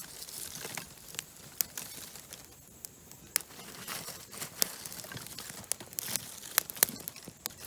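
Newly lit campfire of sassafras twigs and oak crackling, with irregular sharp pops.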